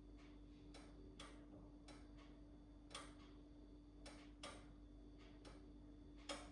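Faint sharp clicks or taps, about eight of them at uneven intervals, the last and loudest near the end, over a steady low hum.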